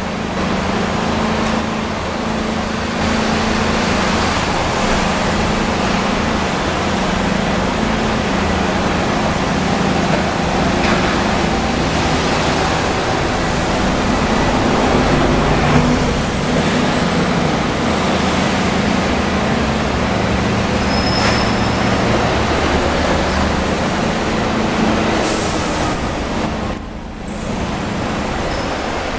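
Hong Kong double-decker electric tram running along its tracks: a steady motor hum under wheel-on-rail noise, with a brief drop in level a couple of seconds before the end.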